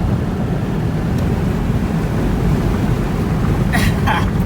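Low, steady rumble of car engines and road noise at speed, heard from inside a moving car. A short, brighter sound comes in near the end.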